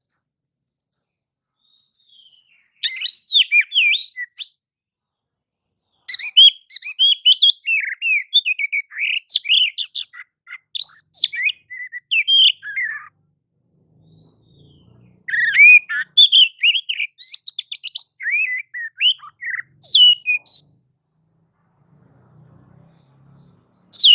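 Oriental magpie-robin singing clear, varied phrases of quick whistles and chirps in three long bouts with short pauses between, and a brief note at the very end.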